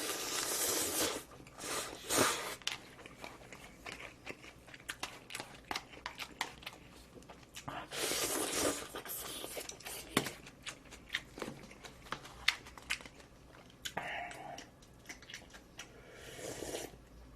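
Close-miked eating of Jin Jjambbong cup noodles: two long slurps, one at the start and one about eight seconds in, with chewing and small wet clicks between them.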